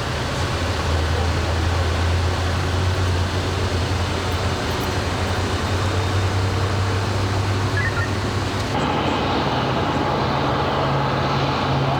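A steady, low engine drone over a constant wash of road and traffic noise. About nine seconds in, the drone shifts abruptly to a slightly higher pitch.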